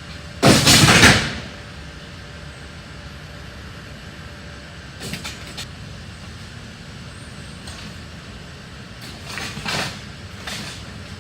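Flood-damaged junk being thrown into a truck: one loud crash about half a second in, then fainter clatters about five seconds in and again near the end, over a steady low hum.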